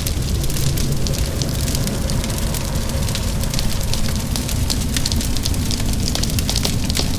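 Wood fire crackling with many small, irregular pops over a steady patter of rain and a low, continuous rumble.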